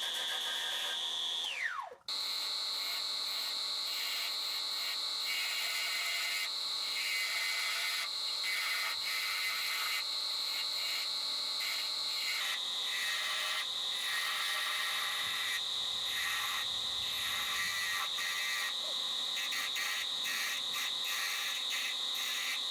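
Wood lathe running with a steady high whine and rough, broken scraping from the turning tool cutting the wood. The whine falls away as the lathe spins down about two seconds in, starts again almost at once, and spins down again at the very end.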